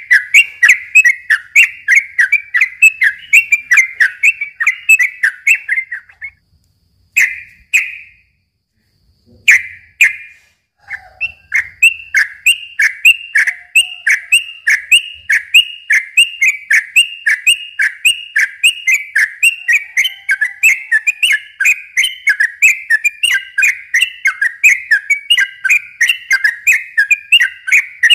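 Yellow-vented bulbul (trucukan) singing a long, fast run of repeated chattering notes, about three to four a second. The run breaks off after about six seconds, leaving only a couple of single notes for a few seconds, then starts up again and carries on.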